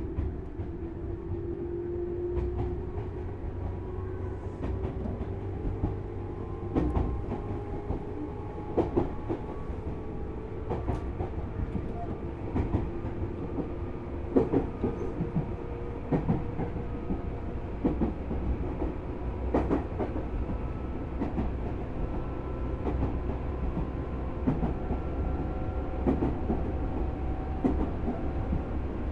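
Tobu Railway Series 6050 resistor-controlled electric train heard from inside a motor car while running, with the traction-motor whine slowly climbing in pitch and a low running rumble. The wheels give irregular clicks and clatter over rail joints.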